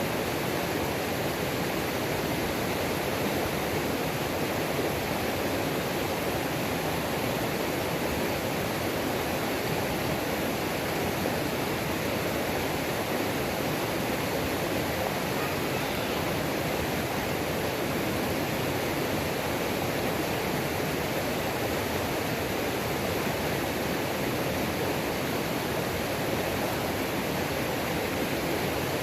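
A mountain creek's waterfall: water pouring and rushing over rocks in a steady, unbroken wash of noise.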